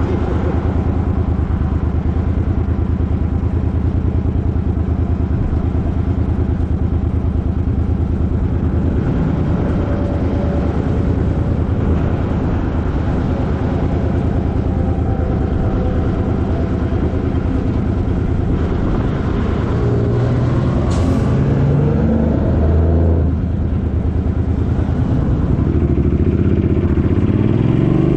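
Suzuki Boulevard M50's V-twin engine running steadily while riding. The engine note shifts a couple of times about twenty seconds in, then rises near the end as the bike accelerates.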